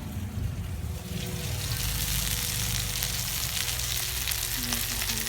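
Chicken frying in hot oil: a steady sizzle full of fine crackles, which grows louder about a second in.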